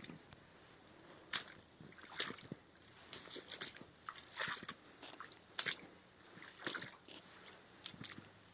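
Footsteps through wet bog: short, sharp steps, unevenly spaced, roughly one a second.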